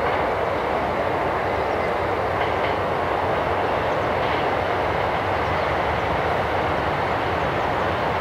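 JR West limited-express electric train running along the track toward the listener, a steady rushing noise of wheels on rail that holds level throughout.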